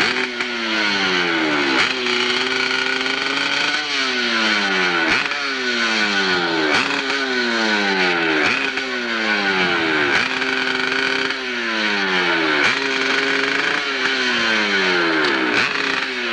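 Hillclimb motorcycle engine being revved again and again: each time the pitch jumps up suddenly and then falls away, about every second or two.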